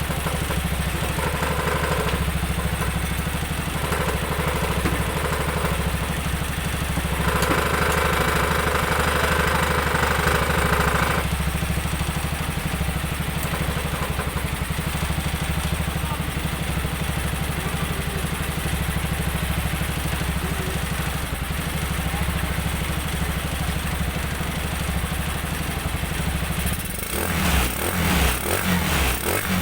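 Jialing 200cc single-cylinder engine in a three-wheeled motorcycle, running steadily at idle. Near the end it is revved unevenly, with the engine note rising and falling.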